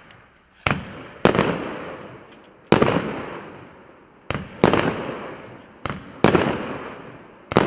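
A 1.2-inch, 72-shot consumer firework cake firing shot after shot at uneven intervals: about seven sharp bangs, each trailing off over roughly a second.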